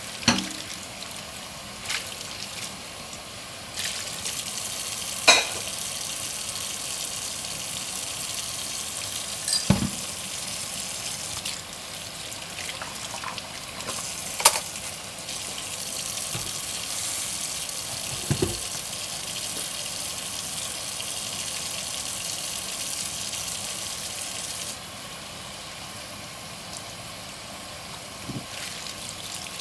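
Tap water running into a kitchen sink while dishes are washed by hand, with a handful of sharp clinks and knocks of dishes against each other and the sink. Near the end the running water gets quieter.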